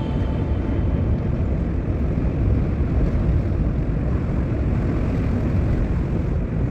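Steady wind and road noise from a moving car, a rumble heaviest in the low end with no change throughout.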